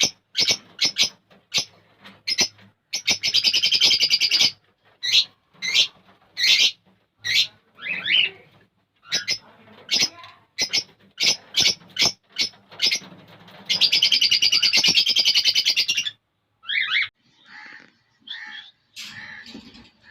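Small cage birds chirping in a quick series of sharp, high calls, a few each second. A rapid rattling trill of about a second and a half comes twice, about three seconds in and again about fourteen seconds in. Near the end the calls thin out into a few scattered notes.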